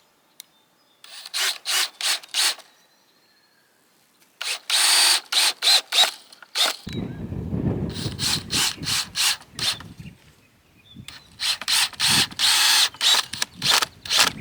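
A power tool run in four short bursts, each a rapid rattling pulse of about four strokes a second.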